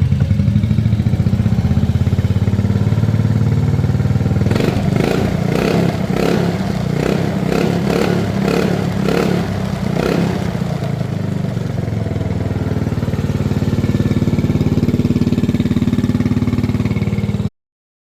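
Engine exhaust through a stock muffler, running just after starting. A run of quick throttle blips from about four and a half to ten and a half seconds, then steady idle again, until the sound cuts off abruptly near the end.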